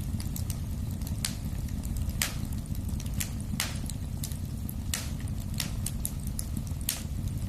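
Wood fire burning in a fireplace: a steady low rumble of flame with frequent crackles and sharp pops, a loud pop every second or so among many small ticks.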